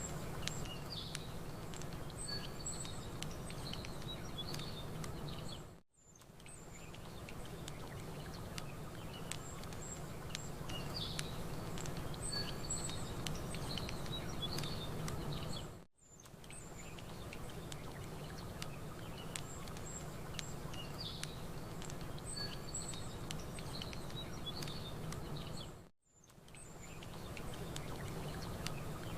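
Campfire ambience: wood fire crackling with many small sharp pops, small birds chirping high above, and a steady low wash underneath. It is a roughly ten-second loop that fades out and restarts three times.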